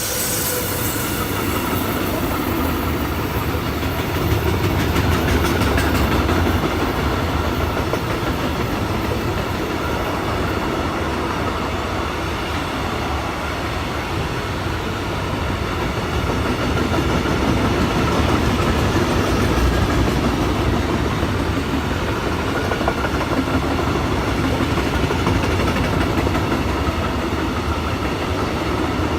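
Train running along the line: a steady rumble of wheels on rail with a rhythmic clickety-clack over the rail joints and a faint steady whine.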